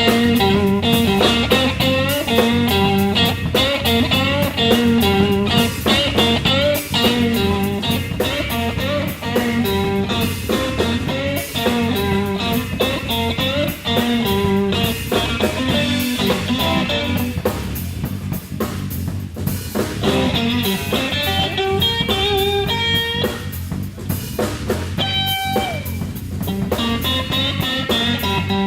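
Live blues band playing an instrumental passage: electric guitar over bass guitar and drum kit. For about the first seventeen seconds the guitar repeats a riff; after that the playing thins out, and bent lead guitar notes come in later.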